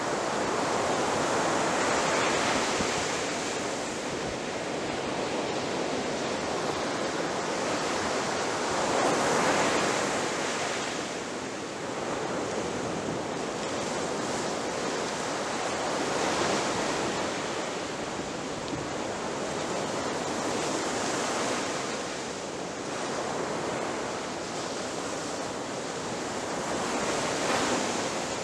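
Ocean surf, waves breaking and washing in a continuous rush that swells every few seconds as each wave comes in.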